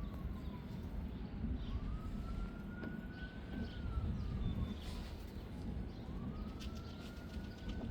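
Distant emergency-vehicle siren in a slow wail, its pitch rising and then falling about every four seconds, over the low rumble of wind on the microphone.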